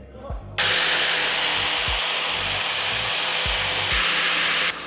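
A power tool running in a steady, loud hiss for about four seconds, starting and stopping abruptly, with a faint high whine joining it near the end.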